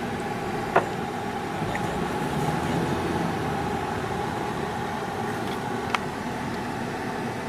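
A car driving along, with steady engine and road noise and two short sharp clicks, one about a second in and one near six seconds.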